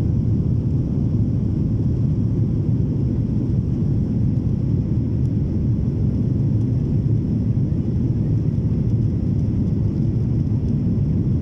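Steady low rumble of a Boeing 737-800's CFM56 jet engines and airflow during the climb after takeoff, heard from inside the cabin, even and unchanging throughout.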